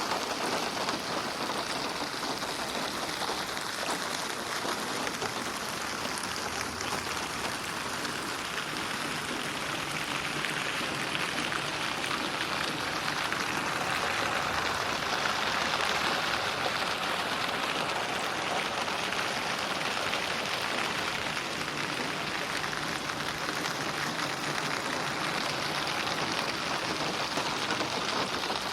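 Steady, even rain falling on a surface, growing slightly louder midway. It is mixed as 8D audio, so it moves around the listener.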